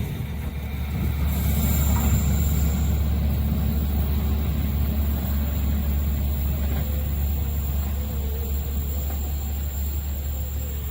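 A train passing a curved level crossing: a steady low rumble of wheels on rail, with a faint wavering wheel squeal on the curve.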